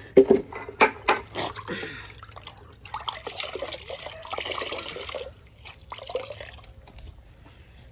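A few sharp knocks and clatter, then water spraying for about two seconds, with a shorter spurt a little later, while a motorcycle is being washed.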